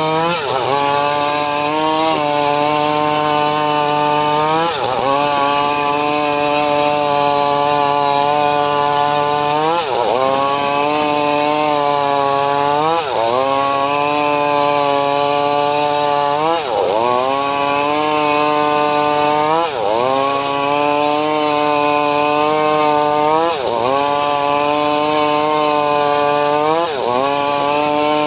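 Homemade motor-driven srekel saw cutting mahogany: a loud, steady whine whose pitch dips sharply and climbs back about every three seconds as the blade takes the wood and frees up again.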